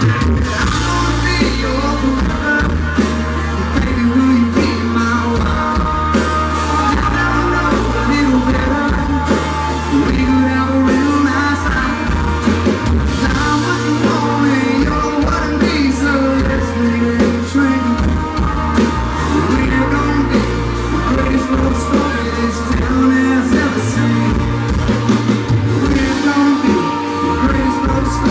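Live country band playing a song: a lead singer over guitar, bass and a steady drum beat, in a loud, rough audience recording.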